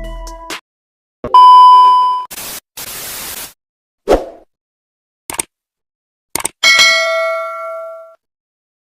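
A string of separate edited-in sound effects: a loud ding about a second in, a short hiss-like burst, a pop and a few clicks, then a ringing chime of several tones that dies away near the end.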